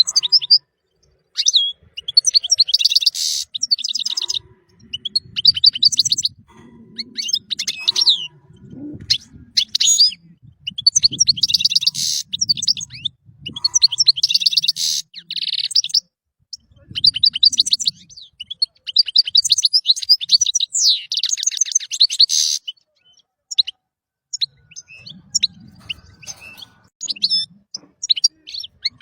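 European goldfinch singing: rapid twittering phrases of high chirps and buzzy trills, coming in bursts with short pauses between them. The song thins to scattered single notes near the end.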